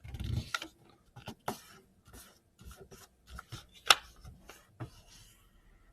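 A sheet of copy paper being handled and folded into a paper airplane: irregular rustles and scrapes of paper as edges are lined up and creased, with one sharp crackle about four seconds in.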